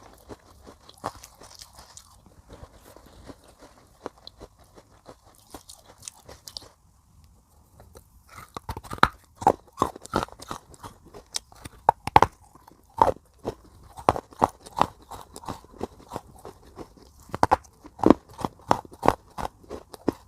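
Close-miked chewing of hard baked clay pot pieces: a dense run of sharp, crisp crunches. The crunching is quieter and sparser at first, almost stops about seven seconds in, then comes back louder and faster from about eight and a half seconds on.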